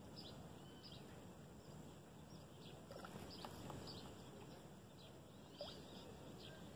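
Near silence with faint, scattered bird chirps over low background noise.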